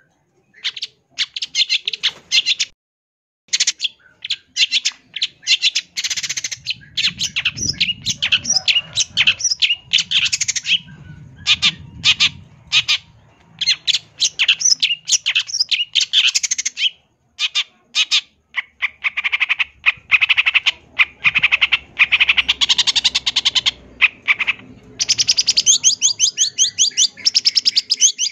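Long-tailed shrike (cendet) singing a long, varied song of rapid, harsh chattering notes and mimicked phrases. The notes come in quick runs broken by short pauses, ending in a fast trill.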